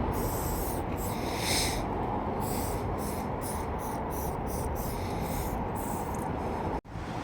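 Aerosol spray paint can hissing in a string of short bursts of varying length, several a second at the busiest, over a steady low background noise. The sound drops out abruptly near the end.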